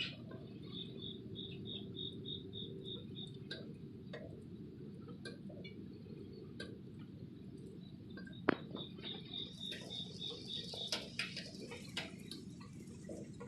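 Thunderstorm rain pattering steadily, with scattered drips ticking and a hiss that grows about ten seconds in. Twice a rapid run of high chirps, about seven a second, sounds over the rain.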